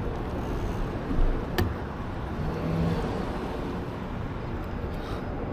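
Steady road and traffic noise heard from a bicycle, with one sharp click about a second and a half in.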